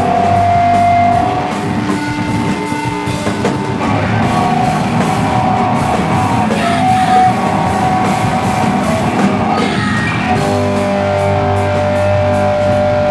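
Slowcore/noise rock band playing live: distorted electric guitars and drums. Held guitar notes at the start give way to a dense, noisy wall of sound, and sustained chords return about ten seconds in.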